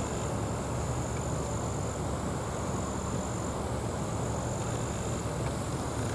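Steady low rumble of a Boeing 777-200 jetliner cruising at high altitude overhead, heard from the ground. A thin, high, steady buzz runs alongside it.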